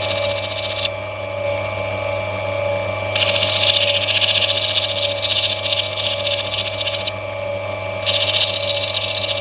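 Lapidary grinding machine's motor running with a steady hum, while a black opal is pressed lightly against the spinning wheel in three spells of hissing grinding, the longest about four seconds, rubbing back the stone to grind out its grey webbing.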